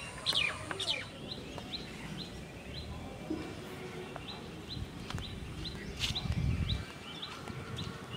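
A bird repeating a short rising chirp about three times a second over outdoor ambience, with louder sweeping calls in the first second. A low rumble comes in briefly about six seconds in.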